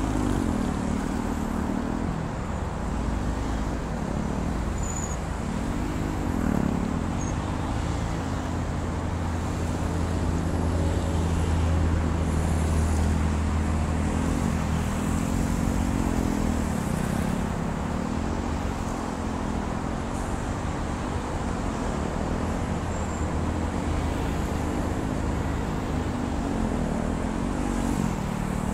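KTM 390 Duke's single-cylinder engine revving up and dropping back over and over as the motorcycle accelerates and brakes through tight turns, over a steady low hum of traffic.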